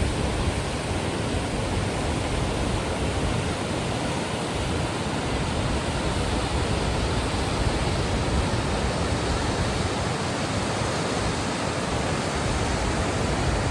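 Large waterfall, a steady rushing of falling water with a deep rumble underneath, even and unbroken throughout.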